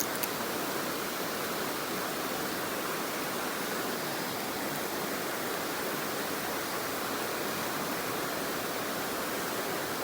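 Mountain stream water rushing steadily, with two sharp clicks right at the start.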